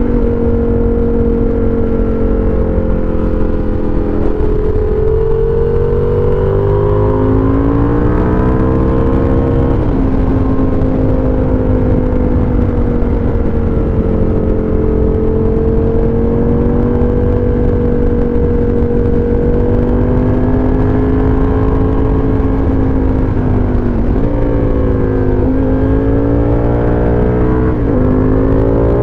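Aprilia RSV Tuono Factory's 60° V-twin engine under way through a dual GPR exhaust, its note rising and falling with the throttle and dipping briefly about ten seconds in and twice near the end, over a low rumble of wind and road noise, heard muffled from a rider's jacket pocket.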